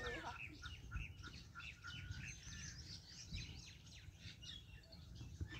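Small birds chirping in a fast, dense run of short high notes, faint overall. The last of a rooster's crow trails off right at the start.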